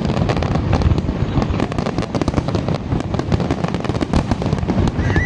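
Fireworks display: a dense, continuous barrage of loud bangs and crackles, with no gap between them.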